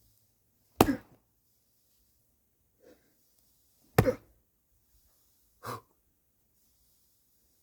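Axe blows splitting firewood by hand: two sharp, heavy chops about three seconds apart, then a lighter knock.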